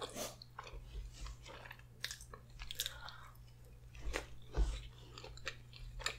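Close-miked chewing of a mouthful of spaghetti with meat sauce: a string of short mouth clicks and smacks, the loudest a little over four seconds in.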